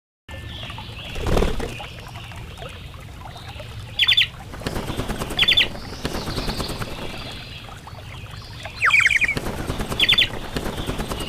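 Birds calling in short clusters of three quick sharp notes, heard four times in two pairs, over rustling that sounds like wings flapping. A low rush comes about a second in.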